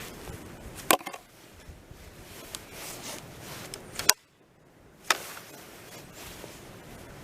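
A few sharp knocks: one about a second in, then two more about four and five seconds in, over a low steady hiss.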